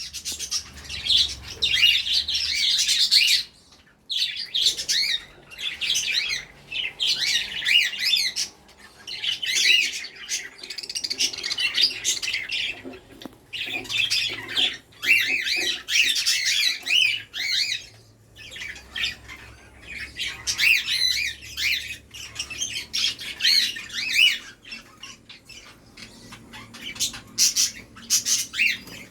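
Pet budgerigars chattering and warbling: fast, high chirps in bursts of a second or two with short pauses between.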